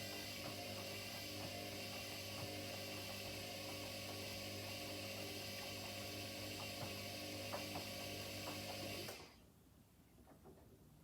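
Front-loading washing machine running a wash cycle, its drum motor giving a steady hum and whine that cuts off sharply about nine seconds in, leaving faint clicks and ticks.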